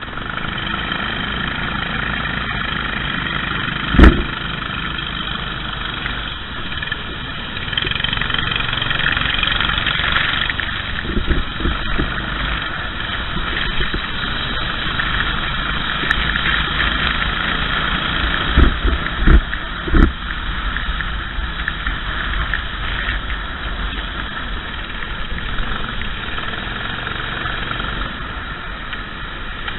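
Racing kart engine running under way, its pitch swelling and easing as the throttle is worked. Several sharp thumps cut through it, one about four seconds in and three close together near the middle.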